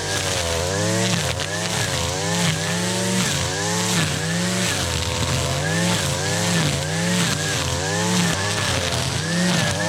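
Gas string trimmer (weed eater) with a two-stroke engine running hard while cutting thick, tall grass and weeds. The engine pitch sinks and recovers over and over, a little faster than once a second, as the line bites into the growth.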